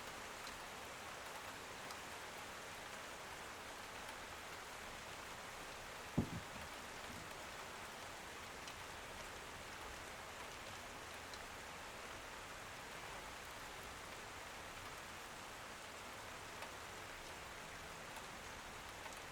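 Steady rain on a window, an even hiss of falling drops, with one dull thump about six seconds in.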